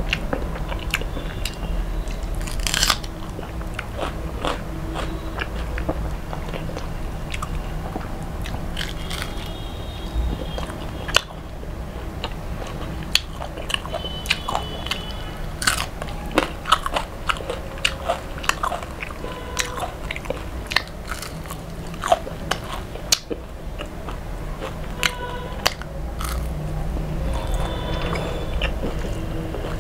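Close-miked chewing and crunching of crispy deep-fried fish and raw onion, with many sharp crunches scattered throughout and most of them in the second half.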